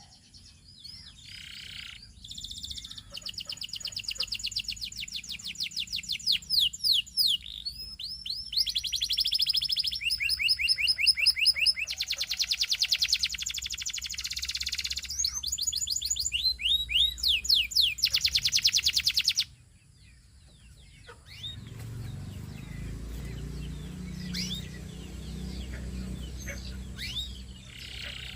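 Domestic canary singing: long, fast trills of rapidly repeated notes that switch from one roll to the next at different speeds and pitches. The song breaks off abruptly about two-thirds of the way through. Fainter scattered chirps follow over a low rumble.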